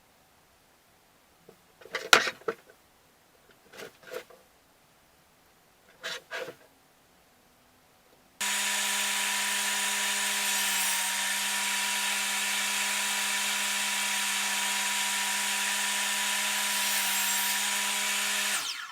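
A few light knocks, then an electric power tool starts suddenly about eight seconds in and runs steadily on wood, a steady motor hum under an even hiss, until it cuts off at the end.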